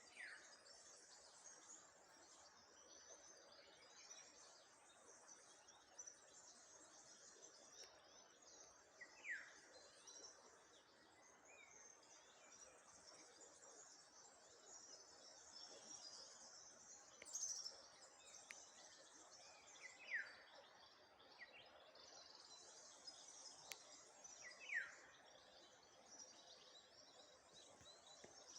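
Faint birdsong by a river: one bird gives a short falling whistle several times, a few seconds apart, over a steady high chatter of other birds or insects.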